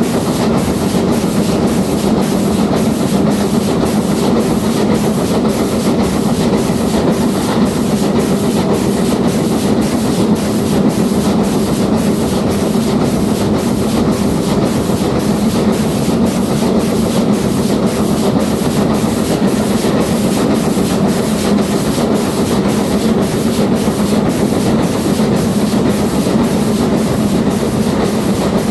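Steam-hauled passenger train running steadily along the line: a continuous, even rumble of carriage wheels on the rails that holds unchanged throughout.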